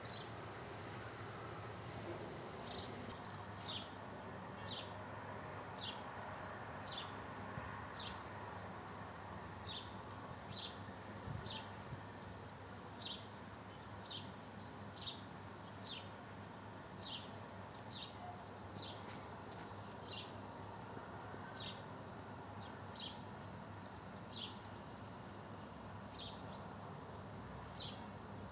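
A small bird repeating a short, high chirp that falls in pitch, about once a second, over a steady background hum.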